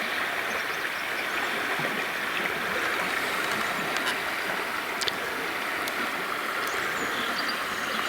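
Fast-flowing taiga river rushing steadily over rocks.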